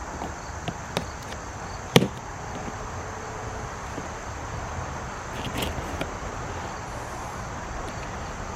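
Cardboard box being opened with a pocket knife: a few sharp clicks, a loud knock about two seconds in, then cardboard scraping and rustling a few seconds later.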